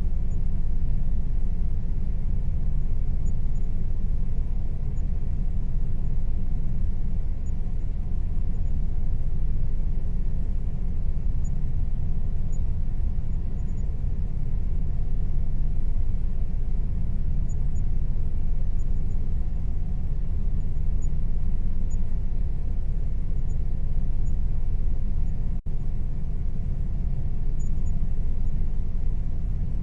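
Air conditioner running with a steady low hum and rumble, a faint steady tone above it. The sound drops out for an instant about 26 seconds in.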